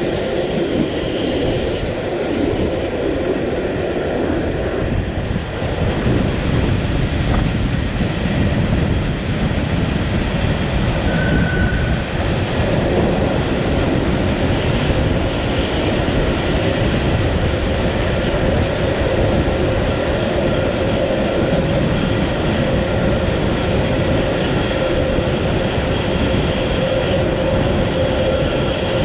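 Matterhorn Gotthard Bahn train running steadily on the metre-gauge line, a continuous rumble with a thin high-pitched wheel squeal that fades out for several seconds in the middle and then returns.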